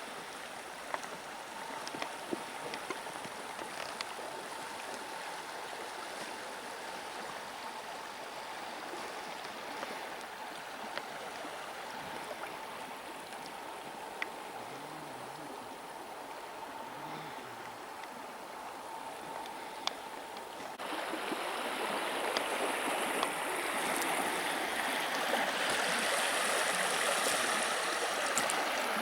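River water rushing and gurgling steadily, with a few faint knocks. About two-thirds of the way through it suddenly gets louder and brighter.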